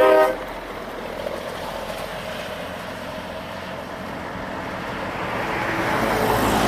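A loud air horn blast cuts off just after the start, leaving passing road traffic that grows louder toward the end as another vehicle approaches.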